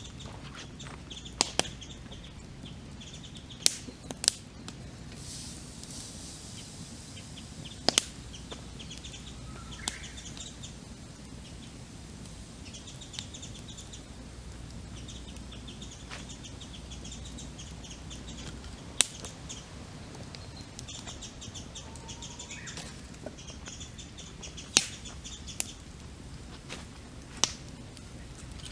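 Wood campfire crackling, with sharp pops every few seconds, under songbirds singing fast trilled calls.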